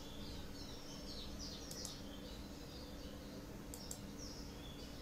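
Small birds chirping faintly in the background: many short, quick, falling chirps. Under them runs a steady low hum.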